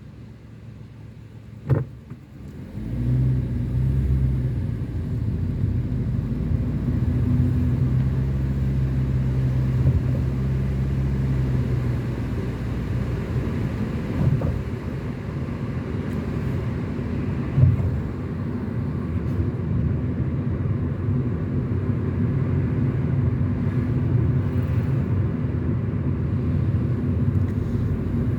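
A car being driven: after a single sharp knock, the low engine and road noise comes up about two and a half seconds in and then holds as a steady low drone, with a few light knocks along the way.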